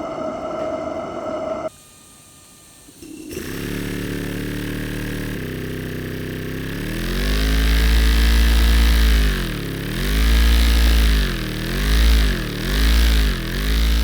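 Model twin-cylinder steam engine (L2350) running, a steady pitched machine sound whose speed rises after a few seconds and then dips and picks up again four or five times. Before it starts, a steady high tone cuts off about 1.7 seconds in, followed by a brief lull.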